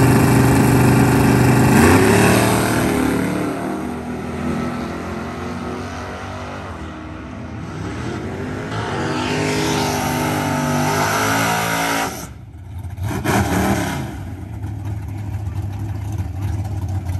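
Muscle car engine revving loudly on the drag strip, then launching and accelerating away, its pitch climbing through several gear changes and fading with distance. After a brief break, other drag cars' engines idle steadily near the end.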